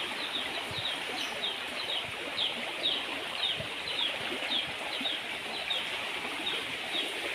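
A bird calling over and over in short falling chirps, about two a second, over the steady rushing of a stream.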